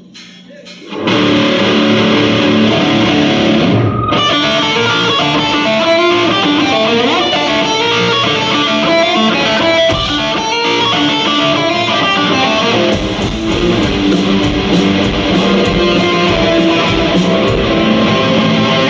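Electric guitar played loud through an amplifier, a run of picked notes and chords starting about a second in, with a brief break near four seconds. From about thirteen seconds, sharp percussive hits join in.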